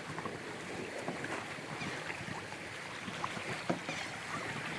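Steady wind and water noise, with a few faint light knocks.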